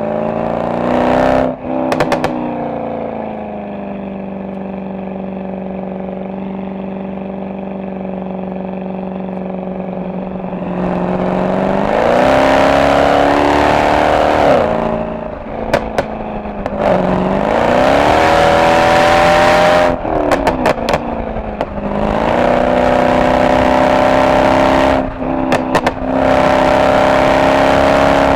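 Mercedes-AMG SL63's V8 exhaust: a steady cruise for the first few seconds, then repeated pulls where the engine note rises and drops back at each gear change. Sharp crackles and pops come from the exhaust at the shifts and lift-offs, in several short clusters.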